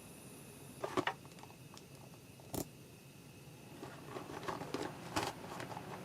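Scattered light knocks and clicks in a small enclosed space, with one sharp click about two and a half seconds in and a run of small clicks near the end.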